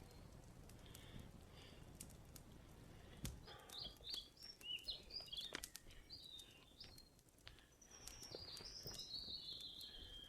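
A bird calling: a quick run of short chirps about a third of the way in, then a longer, gently falling call near the end, over faint scattered ticks.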